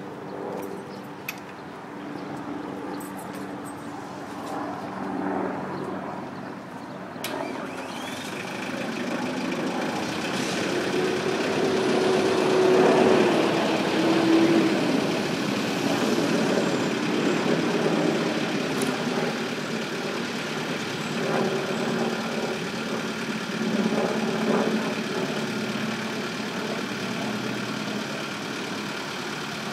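LS tractor's diesel engine running, growing louder to a peak about twelve seconds in, then settling back to a steady run.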